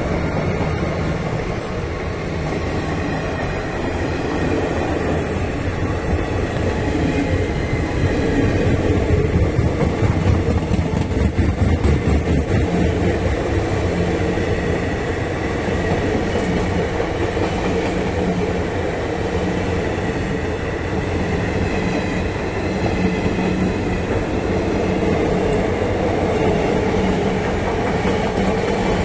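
Indian Railways passenger coaches rolling past at speed close by: a steady rumble of wheels on rail with a rhythmic clatter over rail joints, loudest and most pulsing about a third of the way in.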